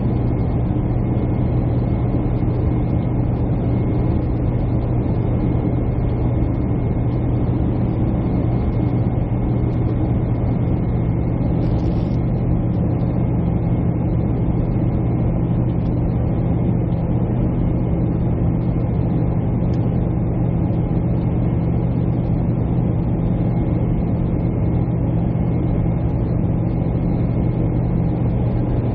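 Steady jet airliner cabin noise: the engines and rushing air make a constant low drone, with a faint high whine above it. A brief faint tick about twelve seconds in.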